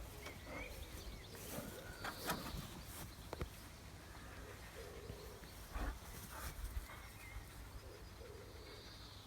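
Faint short chirps and soft calls from young chickens, with scattered small clicks and a low steady wind rumble.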